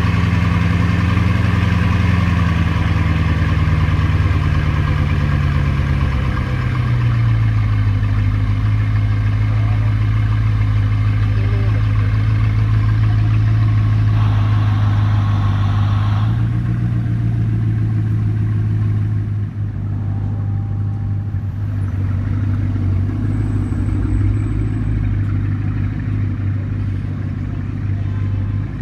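Bugatti Chiron's quad-turbo W16 engine idling steadily after a cold start. Its idle speed drops noticeably about seven seconds in as the fast cold idle settles.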